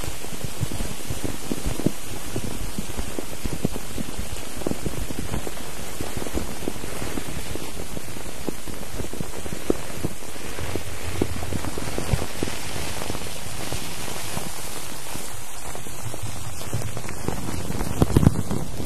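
Steady rain-like hiss thick with small crackles and taps, with a short cluster of louder knocks near the end.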